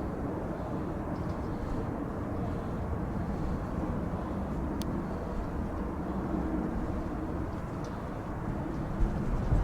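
Steady rumble of a jet airliner's engines, with wind buffeting the microphone and rising near the end.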